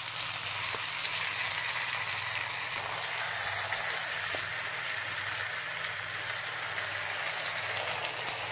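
Rice, lentils and meat curry frying in oil in a pan, a steady sizzle just after the curry has gone in on top of the rice.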